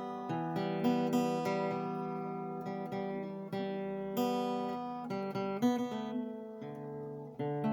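Background music on acoustic guitar: plucked chords that ring and fade, changing every second or so.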